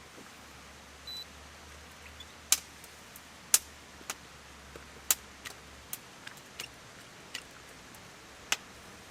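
Wood campfire crackling: sharp, irregular pops and snaps, about a dozen, over a faint steady hiss.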